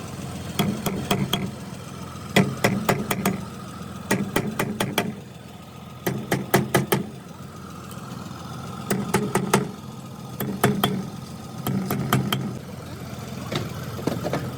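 Bursts of sharp knocks, each a quick run of four to six, repeating every second or two over a steady engine-like hum.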